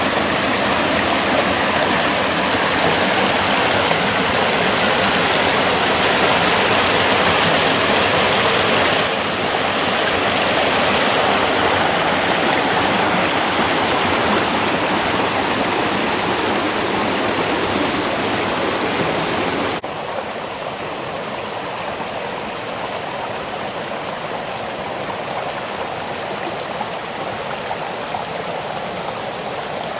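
Creek water flowing steadily. The sound drops abruptly in level about two-thirds of the way through and stays quieter after that.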